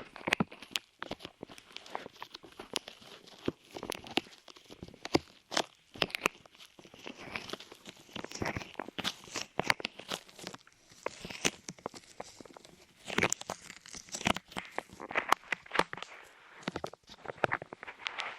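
Light clay squished and pressed against the microphone's ears, making irregular sticky crackling and crunching with many sharp clicks.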